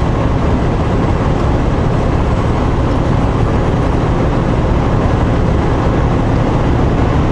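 Semi-truck cab while driving: a steady engine drone and road noise, heaviest in the low end, with no change.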